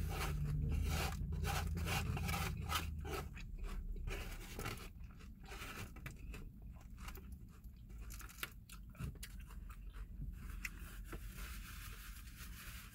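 Close-up eating sounds: crunchy salad being chewed, with a fork scraping and clicking in a styrofoam takeout container. The crackly clicks are irregular and thin out in the last few seconds.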